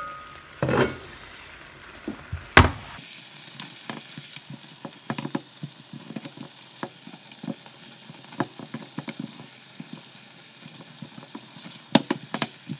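Chicken wings sizzling in a soy sauce and honey glaze in a frying pan, with a steady crackle of small pops and spatters as they are turned over with a spatula. A few sharp knocks against the pan come in the first few seconds and again near the end.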